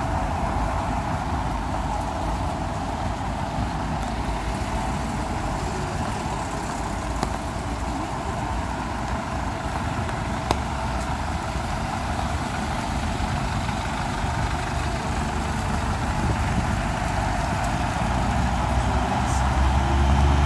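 Steady hiss of rain and traffic on a wet street, under a low rumble, growing a little louder near the end.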